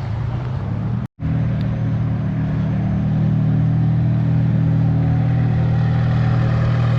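A car engine running with a deep, steady low rumble as the car pulls up close by, getting a little louder about three seconds in. The sound cuts out for an instant about a second in.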